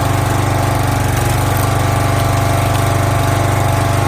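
Small gasoline engine of a log splitter running steadily at an even speed.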